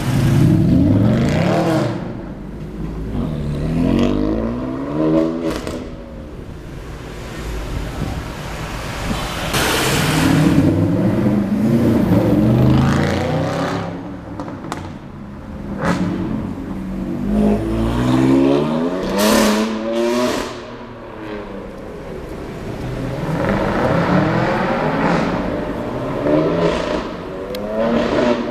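High-performance car engines revving hard and accelerating, in about five separate loud pulls whose pitch rises and falls. A few sharp cracks come about two-thirds of the way through. The cars are a RennTech-tuned Mercedes-Benz SLS AMG and a BMW M4.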